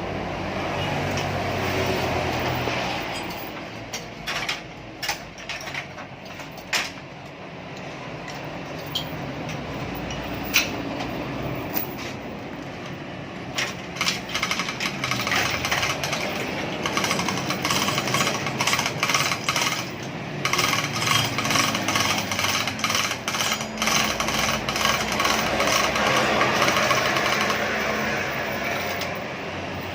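Workshop tool noise while an engine is being fitted: a steady mechanical rattle with scattered sharp metal clicks and knocks, turning into a long stretch of fast, continuous rattling about halfway through.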